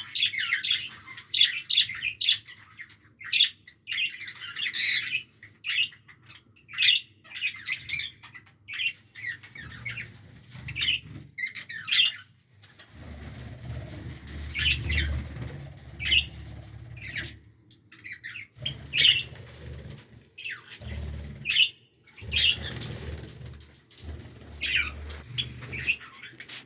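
Parrot chicks giving rapid, repeated scratchy chirps and squawks, the begging calls of young nestlings. From about halfway in, stretches of low rumble sit under the calls.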